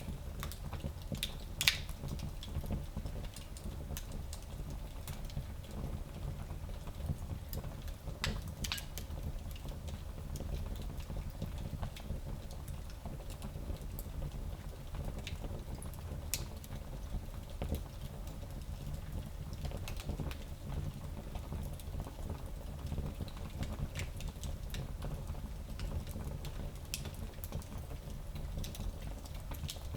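Wood fire burning in a small fireplace: a steady low rumble of the flames with scattered crackles and pops, the loudest pop a little under two seconds in.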